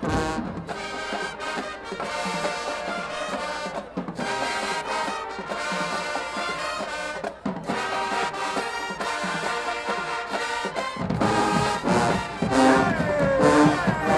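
Marching band brass section playing held chords; a little before the end the music shifts to sliding notes and gets louder.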